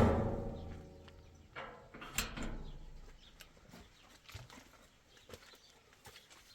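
A loud knock that rings on and dies away over about a second and a half, then a second, softer ringing knock about two seconds in, followed by faint scattered ticks.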